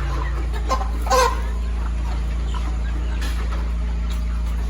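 Broiler chickens clucking, with one loud squawk about a second in, over a steady low hum.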